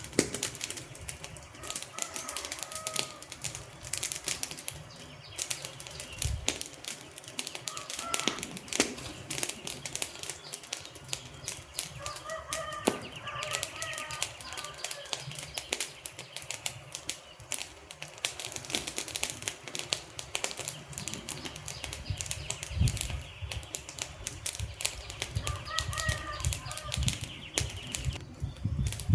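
Wood fire crackling and popping: a dense, irregular stream of sharp snaps over the low rumble of the flames.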